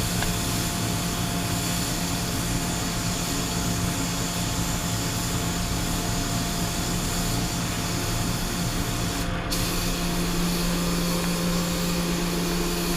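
Paint spray gun spraying black sealer in a steady, continuous hiss, with a steady hum underneath. The sound comes through a waterproof camera case, which dulls it.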